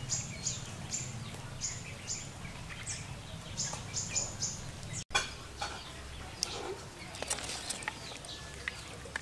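Small birds chirping: a run of short, high, quick notes repeated every half second or so over a low steady hum. After a cut about five seconds in, the chirps thin out to a few scattered ones among light clicks.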